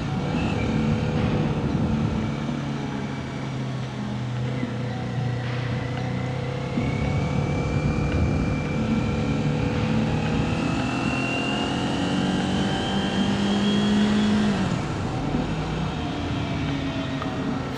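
Kawasaki Ninja 400 parallel-twin engine running under way, heard from the rider's position with road and wind noise, its pitch climbing slowly as the bike picks up speed through the middle of the stretch.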